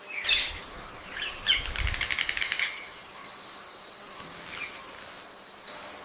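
Birds calling: a sharp chirp, then a rapid chattering run of notes lasting about a second and a half. A short rising call comes near the end, over a faint steady high-pitched background hum.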